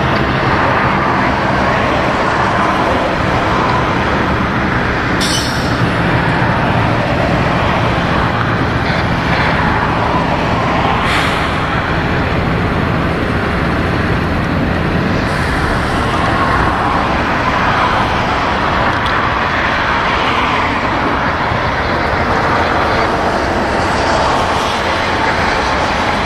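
Freight train of double-stack container cars rolling past: a loud, steady rolling noise with a low hum underneath, and two brief sharp sounds about 5 and 11 seconds in.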